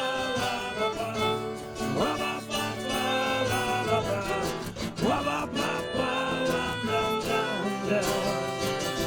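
Acoustic band playing an instrumental break in a song: guitar under a melody line that slides sharply up in pitch about every three seconds.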